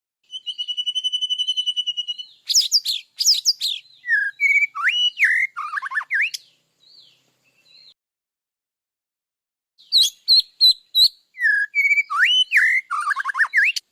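A songbird singing: a fast, even trill opens, then a quick run of varied whistled notes that slide up and down. After a pause of a few seconds, a similar run of notes comes again.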